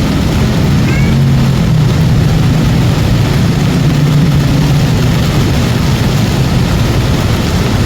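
Lahar flood in the volcanic river, a steady loud low rumble, with a few faint short high chirps about a second in.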